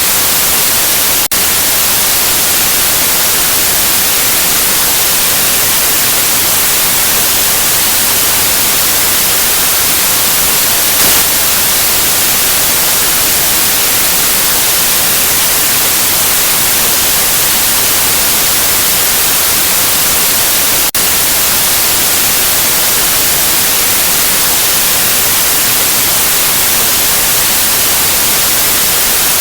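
Steady white noise: an even, loud hiss with no tone or rhythm, brightest in the highs. It dips for a split second twice, about a second in and about two-thirds of the way through.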